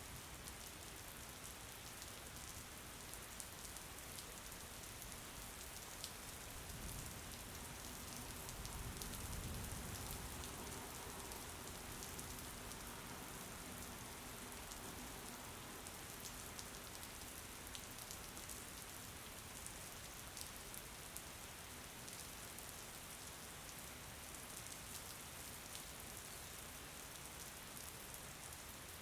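Steady rain: a soft, even hiss with scattered sharp ticks of drops. About a third of the way through, a low rumble swells for a few seconds and fades.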